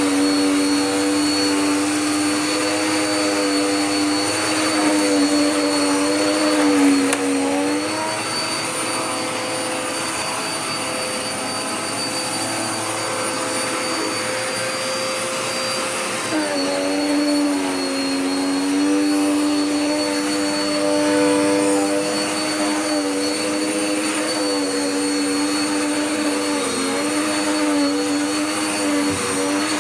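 Dirt Devil Power Max Pet upright vacuum running on a rug: a steady motor hum and whine that dips briefly in pitch a few times as it is pushed, with a softer stretch in the middle.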